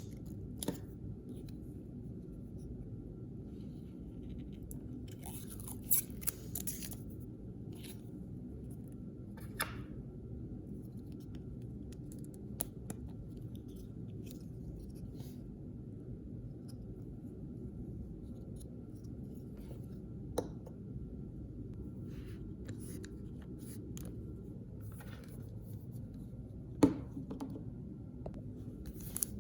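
Unboxing of small toys and paper blind-bag packaging: scattered small clicks and a brief crinkle now and then, the loudest a sharp click about 27 seconds in, over a steady low hum.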